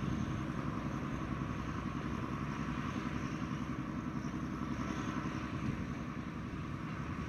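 A long rake of covered freight wagons rolling slowly past, the wheels giving a steady rumble on the rails.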